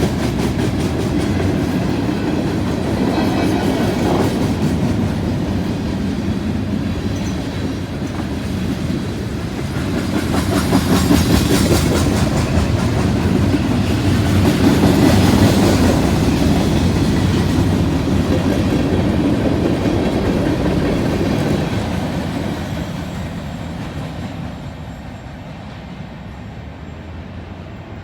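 Freight cars of a Canadian National train rolling past, steel wheels clicking rhythmically over rail joints and a junction switch. The sound grows louder midway, then fades away near the end as the train moves off.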